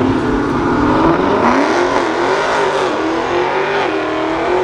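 A car engine revving under acceleration, its pitch rising and falling.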